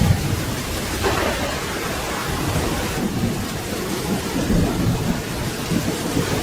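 Steady rain with a low thunder rumble running underneath.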